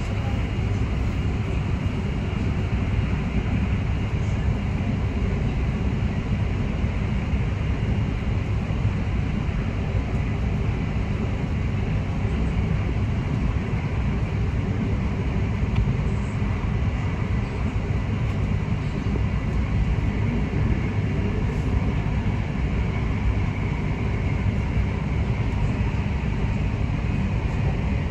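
Passenger train running steadily at speed, heard from inside the carriage: an even low rolling rumble of wheels on track, with a faint steady high whine above it.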